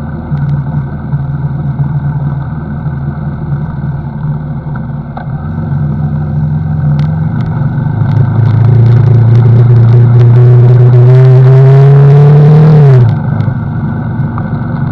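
CFMoto NK motorcycle engine running steadily, then accelerating hard from about five seconds in, its note growing loud and climbing gently in pitch for several seconds before dropping away suddenly near the end.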